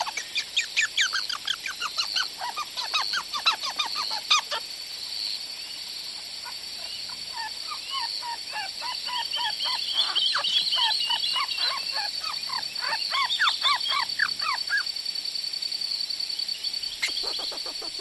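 Bird calls: rapid runs of short, falling notes in two bouts, the second a few seconds in and lasting longer.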